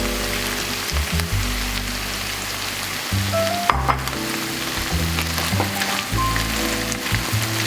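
Food sizzling steadily as it fries in a pan, with occasional stirring and a brief knock about four seconds in.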